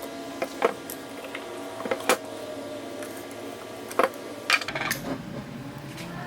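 Small metal parts clinking: several sharp clicks with short ringing, a few of them in quick pairs, as pieces of a vintage Black & Decker grinder are handled and set down.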